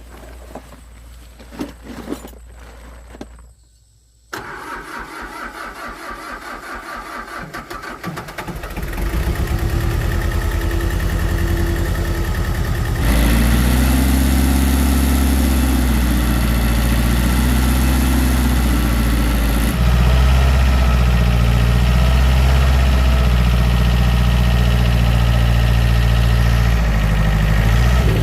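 An engine is started: a few seconds of rhythmic cranking, then it catches and runs, settling into a steady idle that gets louder partway through.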